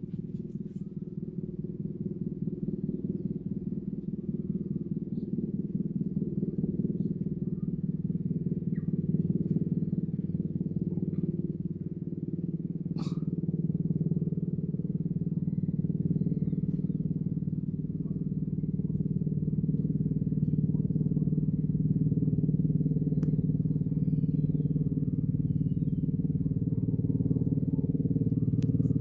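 Helicopter flying in figure-eight loops: a steady rotor chop and engine drone that swells and eases as it turns, growing somewhat louder overall.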